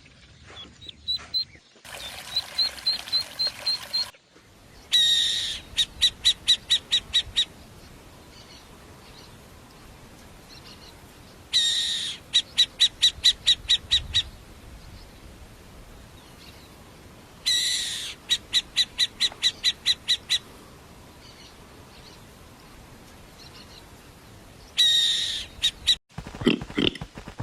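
A bird singing: each phrase is a loud opening note followed by a rapid, even series of about a dozen high notes, repeated four times about six seconds apart.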